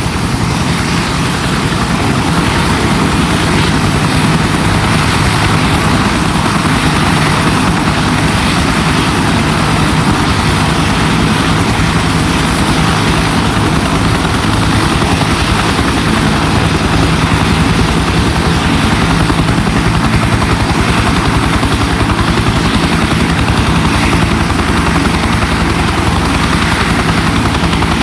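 UH-1 helicopter's turbine and two-blade main rotor running loud and steady, with a rapid, even beat from the rotor.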